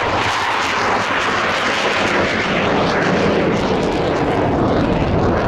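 Fixed-wing aircraft engine noise, loud and steady throughout.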